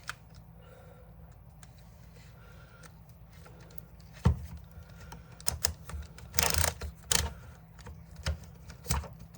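Clicks and knocks of DeWalt DCD780 drill parts being handled and pressed together during reassembly: a sharp knock about four seconds in, then a run of clicks with a short scrape in the middle.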